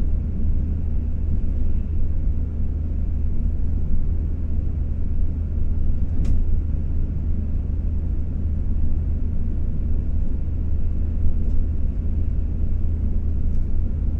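Shinkansen bullet train running at speed, heard from inside the passenger cabin: a loud, steady low rumble with a rushing hiss above it.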